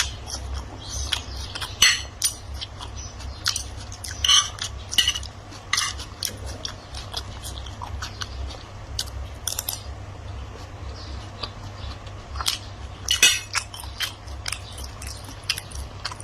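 Cutlery clinking against plates and bowls in short, irregular clicks, with chewing in between: the sounds of someone eating a meal.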